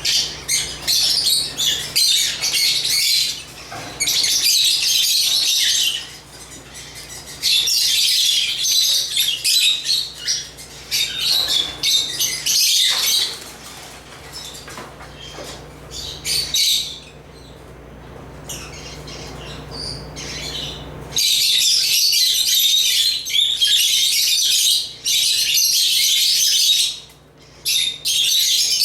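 A group of African lovebirds chattering in rapid, high-pitched chirps and squawks, in bursts broken by short pauses. The chattering dies down to a lull about halfway through, then picks up loudly again near the end.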